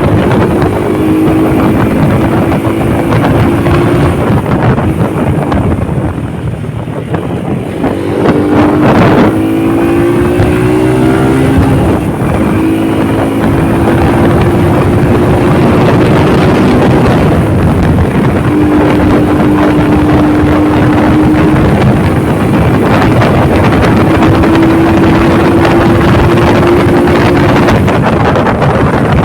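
Motorcycle engine running at road speed under heavy wind noise on the microphone. The engine note climbs in pitch about eight seconds in as it accelerates, then holds fairly steady.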